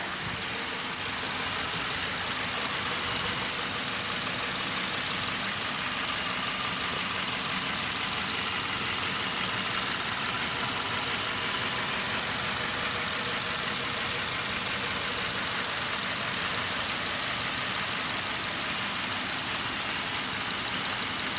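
Subaru Forester flat-four boxer engine idling steadily.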